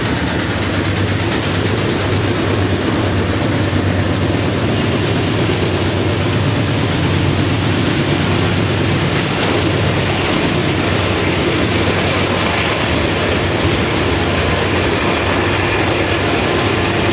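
Freight train cars rolling past: a steady rumble of steel wheels on the rails as a string of tank cars and hopper cars goes by.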